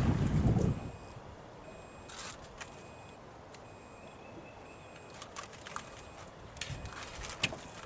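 Wind buffeting the microphone, cutting off abruptly under a second in, then a low background with scattered light clicks and knocks.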